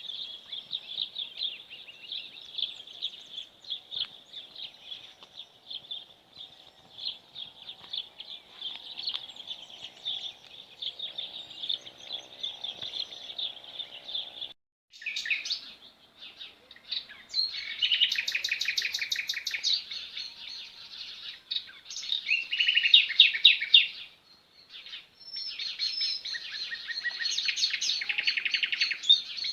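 Small songbirds chirping: a dense, continuous twittering chorus for the first half. It cuts off abruptly about halfway through. Louder separate songs with fast trills follow.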